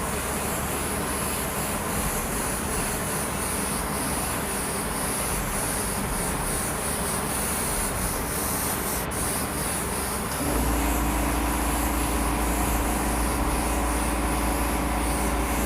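Airbrush hissing steadily as it sprays urethane paint through a stencil. About ten seconds in, a low steady hum with a few held tones starts and keeps going.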